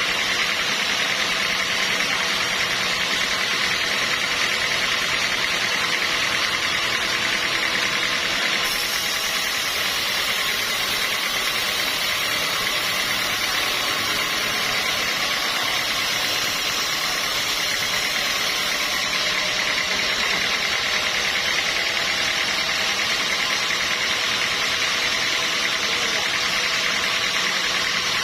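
Sawmill machinery running steadily: a constant mechanical drone with a hissing, whining edge and no pauses.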